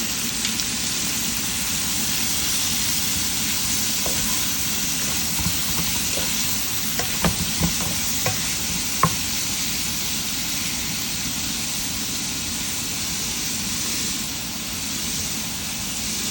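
Chicken liver sizzling steadily as it fries in a pan with onion, garlic and pepper, being stirred, with a few short clicks of a utensil against the pan around seven to nine seconds in.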